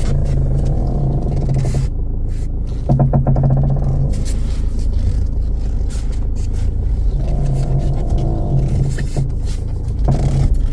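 A Kia Ceed's creaking noise: several drawn-out groaning creaks, each lasting a second or more, over a steady low rumble.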